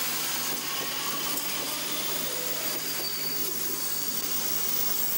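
A Berlin S-Bahn class 480 electric train passing close at speed: a steady rushing noise of the cars going by.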